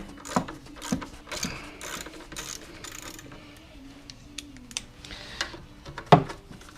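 Sharp metallic clicks and light rattling from hand tools and parts being worked on a small-engine recoil pull-start assembly. The clicks come several in the first three seconds, then there is quieter rattling, and one loud click about six seconds in.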